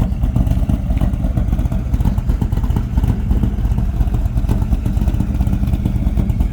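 1958 Wolseley 6/90's straight-six engine idling steadily.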